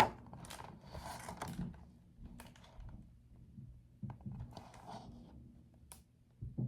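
Paper rustling and small clicks from a picture book being handled and its pages turned, with a sharp click at the start and another about six seconds in.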